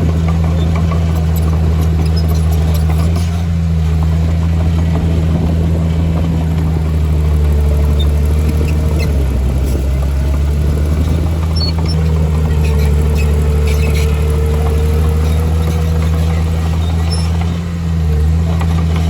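Bulldozer's diesel engine running steadily under work, with a faint whine that wavers in the second half and scattered clicks and rattles.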